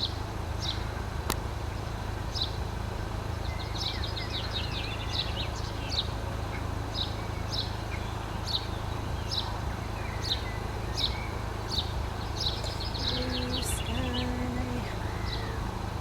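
Small songbird calling: short high chirps repeated about once or twice a second, broken twice by quick trills, over a steady low outdoor rumble.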